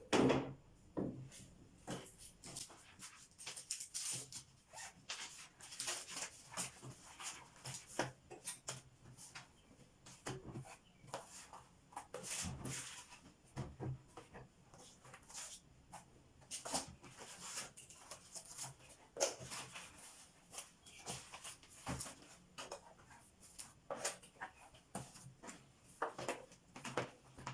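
Irregular rustling with light taps and knocks, as of bedding and household things being handled and put down; the loudest knock comes right at the start.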